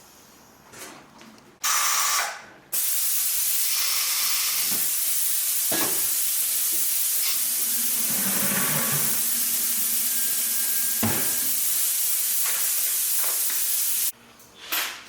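Compressed air hissing steadily from an air gun in two bursts: a short one about two seconds in, then a long one of about eleven seconds that cuts off near the end.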